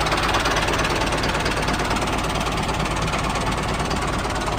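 Engine running steadily with a fast, even knocking beat.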